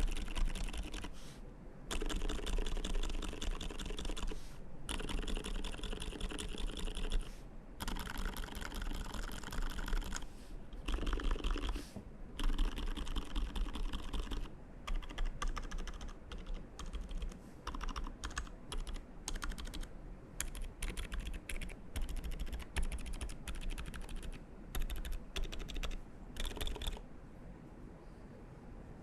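Mechanical keyboard typing on an Arisu in an acrylic case with a 3mm acrylic plate, Boba switches and GMK keycaps. Fast, continuous typing for about the first half gives way to slower, separate key presses, which stop shortly before the end.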